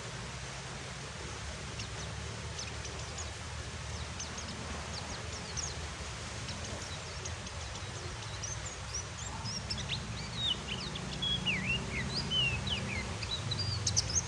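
Steady hiss of rain with a white-eye (pleci) giving scattered thin, high chirps. About ten seconds in, these become a quicker run of twittering notes that slide up and down.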